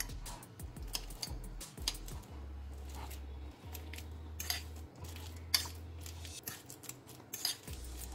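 A metal fork mashing banana in a ceramic bowl, its tines clicking against the bowl at irregular intervals.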